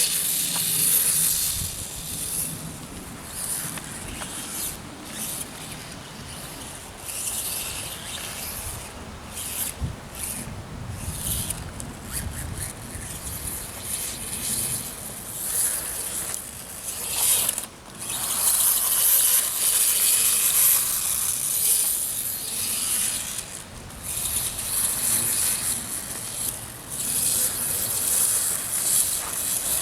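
Electric RC dirtbike's brushless motor and gear drive whirring and whining, swelling and fading again and again with the throttle.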